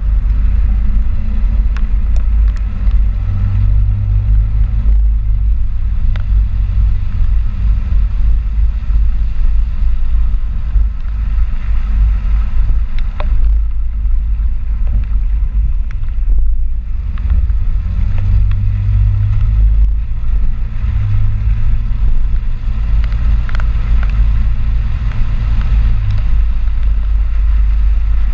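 Ford 4x4 pickup truck on the move: a loud, steady low rumble of engine and road noise. A deeper drone comes in twice, for several seconds each time, about three seconds in and again from about eighteen seconds.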